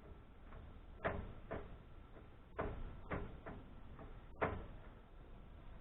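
Light clicks and knocks of metal parts and tools being handled while an amplifier is taken apart: about six separate sharp taps over a few seconds, starting about a second in.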